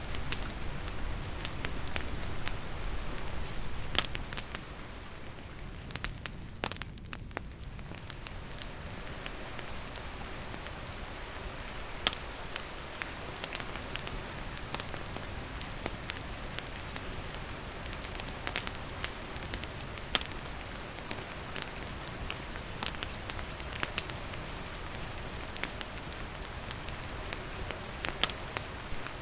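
Steady rain falling on a surface, with a wood campfire crackling in frequent sharp pops throughout.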